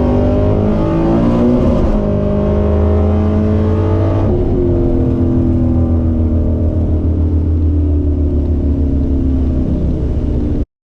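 Drag car engine running loud, its pitch rising and then dropping in steps about two and four seconds in before holding fairly steady; the sound cuts off abruptly near the end.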